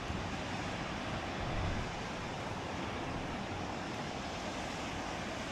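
Steady wash of rough sea surf breaking on rocks below, mixed with wind rumbling on the microphone.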